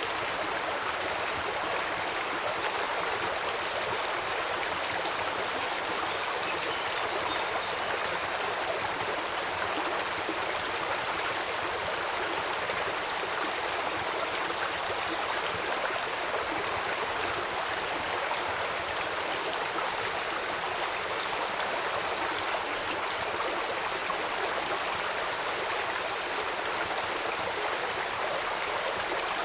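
Steady rushing of a flowing stream, with rain mixed in. Over it a small high, thin chirp repeats about twice a second for much of the time, then stops.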